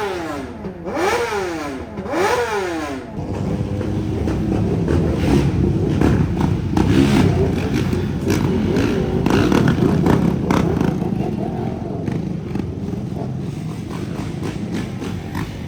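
Motorcycle engine revving in quick rising and falling blips for the first three seconds, then a loud, steady mix of vehicle engine noise.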